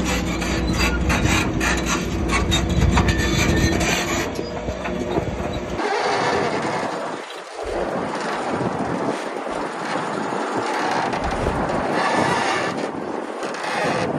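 Heavy diesel earthmoving machinery running, with a steady engine note and a rapid metallic clatter. About six seconds in this cuts off abruptly and gives way to a rough, scraping, rushing noise without the engine's low rumble.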